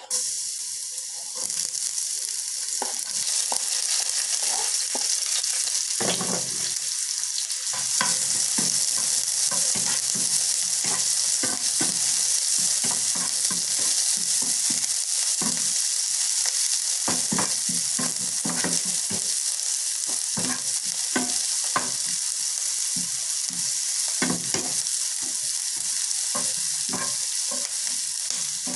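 Chopped onion and red chilli sizzling in hot oil in a non-stick frying pan, the hiss starting suddenly as they are tipped in. A spatula scrapes and taps against the pan over and over as they are stirred.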